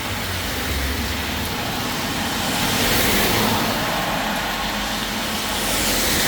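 Cars passing on a wet road, their tyres hissing over the steady sound of rain, swelling twice as vehicles go by, about halfway and near the end.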